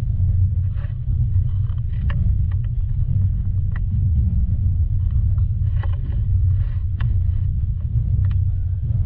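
Steady low rumble of a passenger train running, with scattered light clicks and rattles.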